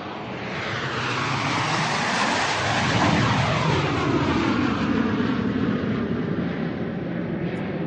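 Airplane flying over: its engine noise grows louder and is loudest about three seconds in, with a sweeping, shifting tone as it passes, then slowly fades.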